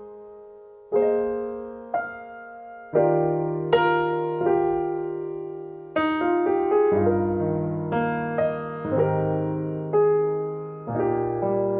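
Background piano music: slow, gentle chords and single notes struck roughly once a second, each ringing and fading.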